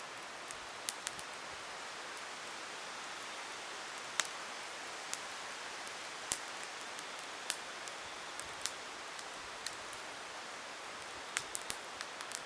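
Campfire burning with a steady hiss and sharp, irregular crackles and pops from the wood, several in quick succession near the end.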